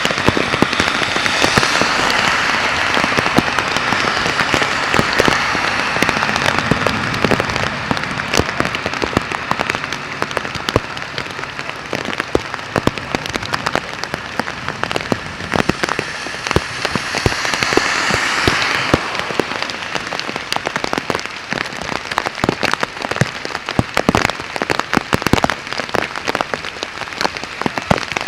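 Heavy rain falling, with many sharp close drop impacts crackling throughout over a steady hiss. The hiss swells twice, once in the first few seconds and again a little past the middle.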